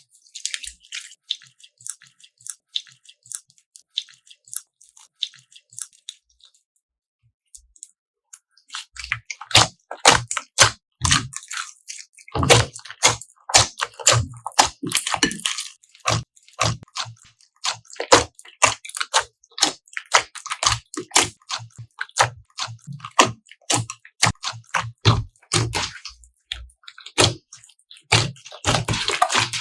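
Slime being squished and kneaded by hand, making quick clicks and pops: sparse at first, a short pause about seven seconds in, then dense and continuous.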